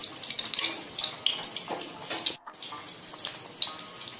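Besan-batter-coated stuffed tomato deep-frying in refined oil in an aluminium kadai: steady sizzling and crackling, with now and then a metal spatula scraping the pan. The sound drops out briefly a little past halfway.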